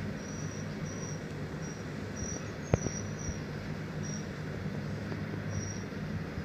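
Indian goods train running with a steady low rumble and hum, with a single sharp clack a little before the middle. Short high chirps repeat over it every second or so.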